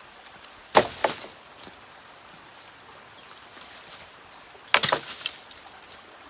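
Sharp cracks of wood in two bursts about four seconds apart, each a quick run of two or three cracks.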